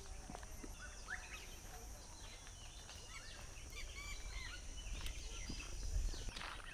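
Small birds chirping, many short quick rising and falling calls overlapping, over a steady high hiss and a low rumble.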